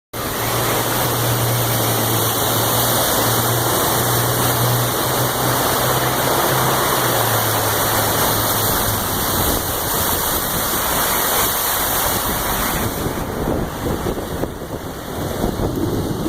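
Steady rushing road-and-water noise of a vehicle driving on a flooded freeway in the rain, with a low engine hum that fades out about nine seconds in.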